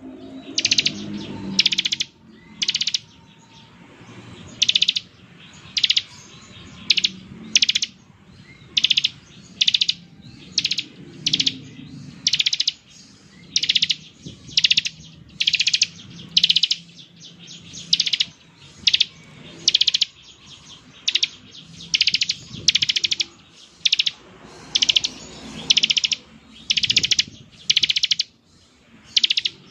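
Bar-winged prinia (ciblek) singing in its 'ngebren' style: short, buzzy, rapid high-pitched trills repeated over and over, roughly once or twice a second.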